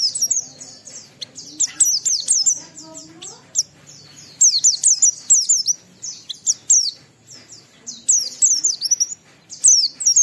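A pleci (white-eye) singing its rapid chattering 'ngalas' song: bursts of quick, high, falling notes strung into phrases with short pauses between them.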